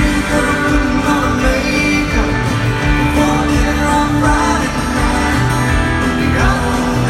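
A full country band playing live in an arena, with guitars and a sung lead vocal, recorded from the audience.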